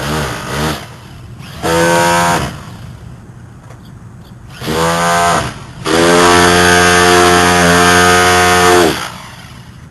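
Hilti rotary hammer with a chisel bit chipping at the edges of a grout-filled steel door frame, run in three bursts: two short ones, then a longer one of about three seconds.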